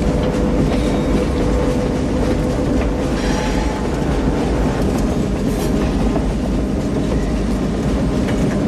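Moving train running at speed: a loud, steady rumble with the wheels clattering over the rails.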